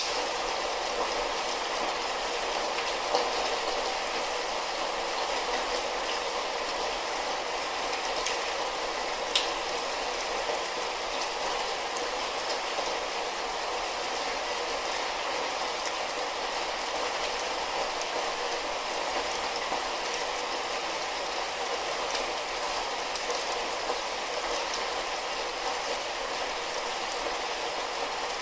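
Light rain falling steadily, an even hiss with scattered drops ticking and the odd sharper click.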